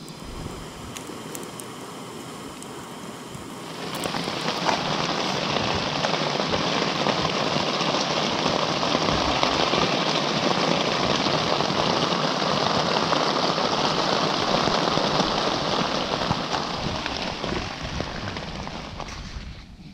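Rain: lighter, scattered drops at first, then about four seconds in a sudden heavy, steady downpour that eases off near the end.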